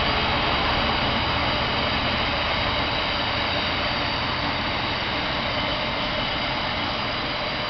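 A long freight train rolling past behind GBRf Class 66 diesel locomotive 66740: a steady rumble and clatter of the wagons on the rails under the low drone of the locomotive, slowly getting a little quieter.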